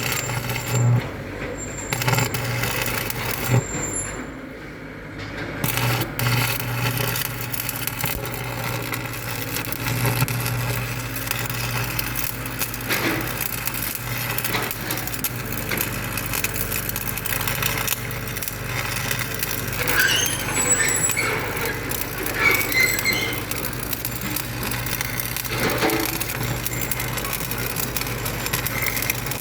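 A motor engine running steadily with a constant low hum, with scattered knocks and clatter on top.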